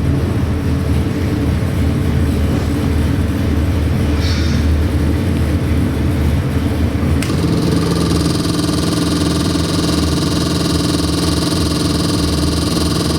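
Custom-built Chevy 350 small-block V8 crate engine running steadily. About halfway through its note changes to a steadier, higher-pitched drone, which it holds.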